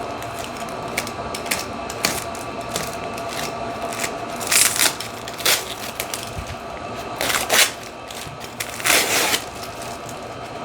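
Packaging being handled and opened around a replacement phone display: a string of small clicks and taps with several short rustling, crinkling bursts, four of them standing out in the second half, over a faint steady hum.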